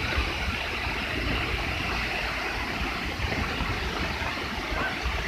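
Waterfall in flood after heavy rain, its water rushing as a steady, heavy noise with a deep rumble underneath.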